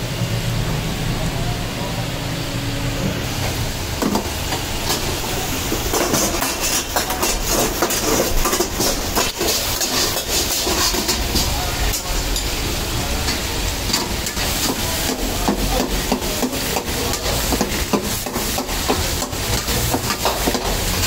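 Mutton and tomatoes frying in a steel karahi wok over a gas burner, with a steady low rumble underneath. From about six seconds in, a metal ladle scrapes and clinks against the wok in many quick clicks.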